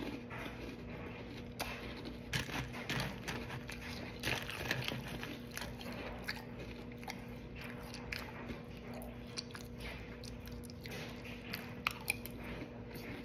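Close-up crunching and chewing of Cap'n Crunch cereal, a spoonful at a time, in irregular crackly bites. Two sharp clicks come near the end as the metal spoon goes to the mouth, over a faint steady hum.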